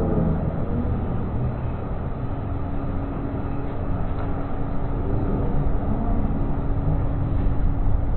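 Steady rumble of a moving vehicle, with a faint steady hum joining about two seconds in.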